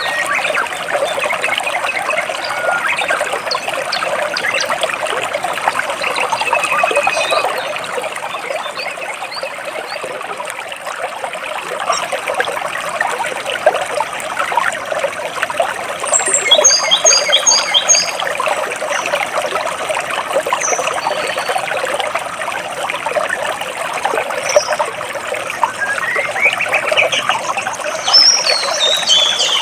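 Stream water flowing and splashing between rocks, a steady trickling rush, with birds chirping over it: a quick run of high repeated notes a little past halfway, and short rising and falling calls near the end.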